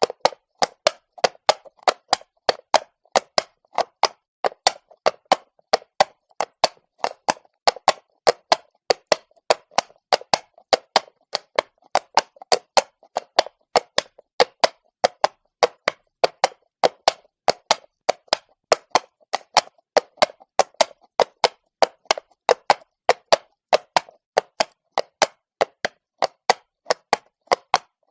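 Horse hooves walking on cobblestone: a steady clip-clop of sharp hoof strikes, about three to four a second.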